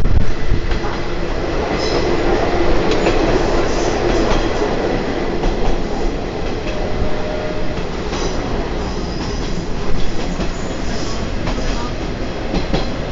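Watarase Keikoku Railway torokko (trolley) train running along the line, heard from aboard: a steady rumble of wheels on rails with scattered clicks, and a brief faint squeal about halfway through.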